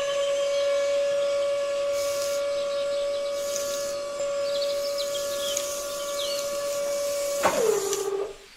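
Small electric motor of a miniature DIY tractor whining at one steady pitch. Near the end its pitch drops as it slows, then it cuts out.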